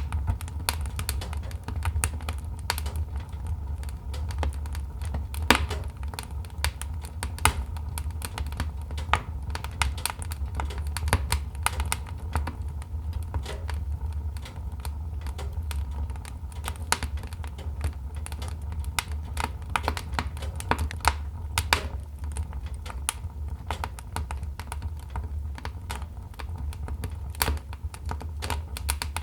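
Wood fire crackling in a fireplace: a steady stream of irregular pops and snaps over a low, even rumble.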